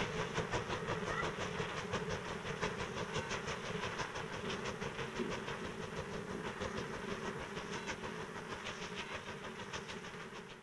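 Train running on the rails, with a rapid, even clicking of wheels over rail joints, fading out toward the end.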